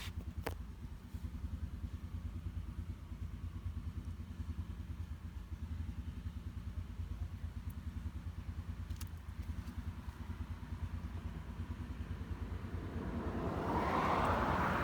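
MV Agusta Brutale 1090 RR's 1078 cc inline-four engine running steadily at idle, with a fast, even low pulsing. A louder, noisier swell rises near the end.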